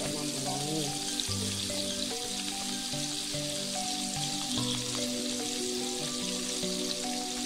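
Sliced chillies, shallots and garlic sizzling in hot oil in a wok, a steady frying hiss. Background music plays a simple melody underneath.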